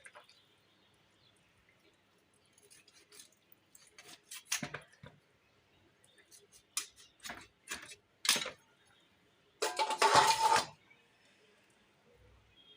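Raw chicken being cut up by hand: scattered sharp snips and clicks of a blade, with a longer, louder burst of cutting and scraping about ten seconds in.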